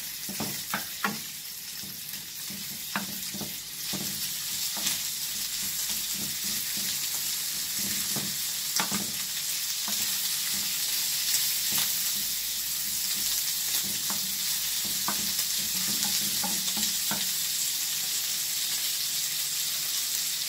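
Diced chicken and bacon sizzling in a frying pan as the bacon browns, stirred with a wooden spatula that knocks and scrapes against the pan every second or two.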